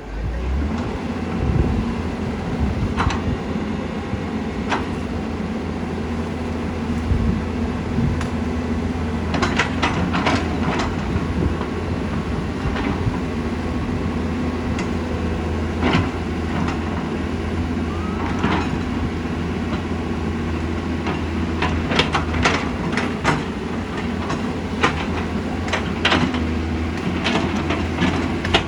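Doosan excavator's diesel engine running steadily under load, with repeated sharp metal clanks and knocks from the working machine, thickest about ten seconds in and through the last third.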